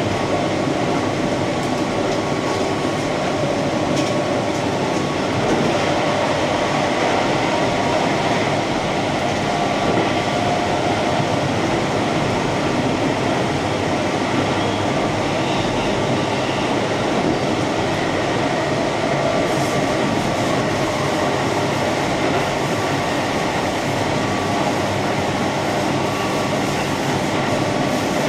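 Keihan electric commuter train running along the line, a steady rumble of wheels on rails with faint wavering tones, heard from inside the car.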